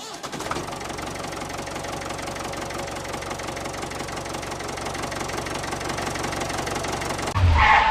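Small engine running steadily with a rapid, even knocking beat. It cuts off suddenly just before the end, and a short, louder sound follows.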